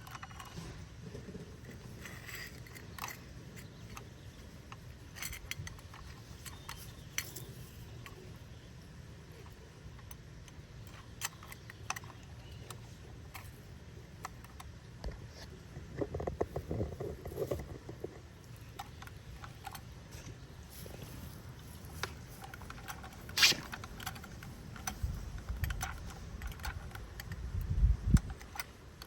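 Scattered light clicks, rattles and scrapes from a plastic toy garbage truck being handled and worked, with one sharp click about two-thirds of the way through and a few low thumps near the end.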